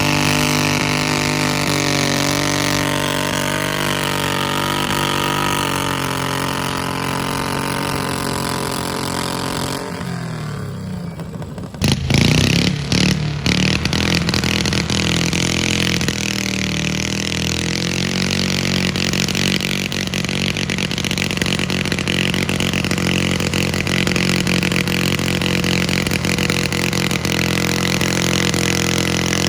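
Engine of a modified garden-tractor puller running hard, its pitch slowly sinking, then dropping away about ten seconds in. About twelve seconds in, an engine comes in loud with a few sharp revs and then runs steadily at high speed.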